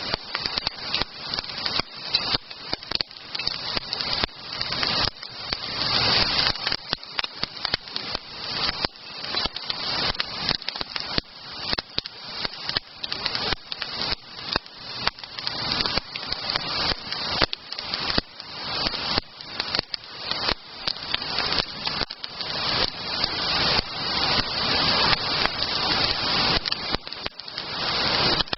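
Wood campfire crackling and popping: a dense, irregular run of sharp snaps, several a second.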